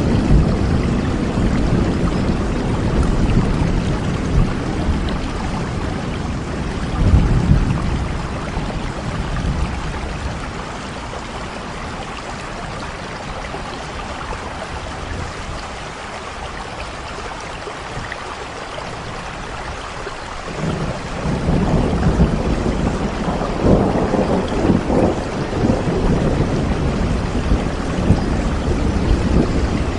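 Steady rainfall with a low rumble of thunder underneath; the rumble eases off about a third of the way in and swells back in a little after two-thirds.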